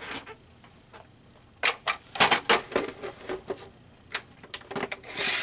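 Paper being cut with scissors: a run of sharp snips, a few single snips after it, and a louder paper rustle near the end.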